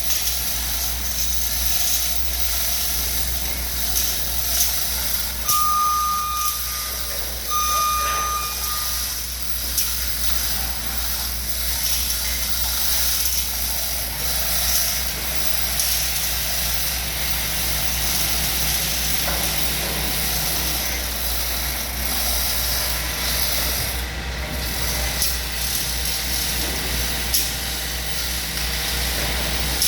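Machinery running steadily with a low rumble and a high hiss. Two long electronic warning beeps sound about six and eight seconds in.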